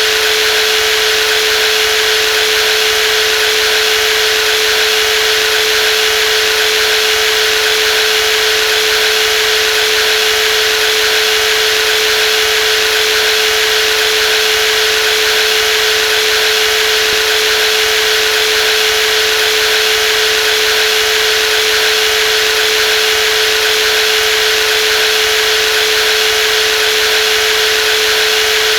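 Brushless jigsaw running steadily, a constant motor whine with one strong steady tone over a hiss.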